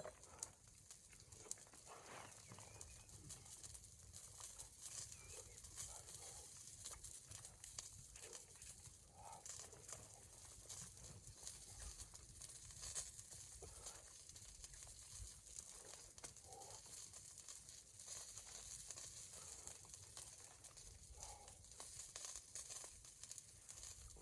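Near silence: a faint steady hiss with a few soft, brief sounds scattered through it.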